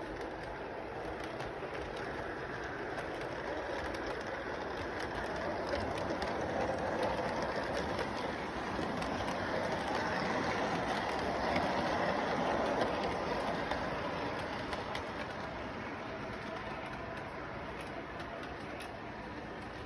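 Model train running along its track, a steady rumbling clatter that grows louder about halfway through as it passes close, then fades again.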